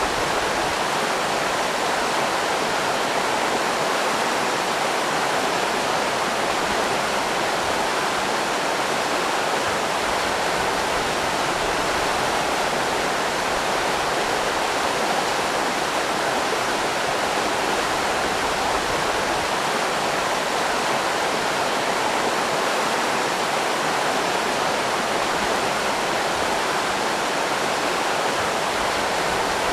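River rapids rushing steadily, a constant even roar of water.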